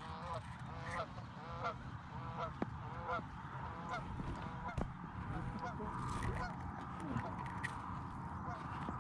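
Geese honking: a string of short, sharp honks and clucks at irregular intervals, over a steady low rumble.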